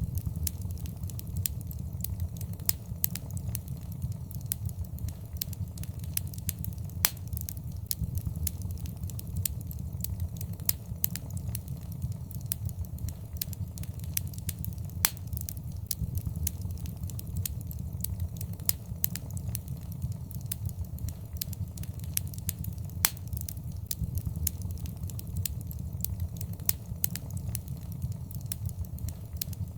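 Fire burning in a fireplace: a steady low rumble of flames under constant irregular crackling, with an occasional louder sharp pop.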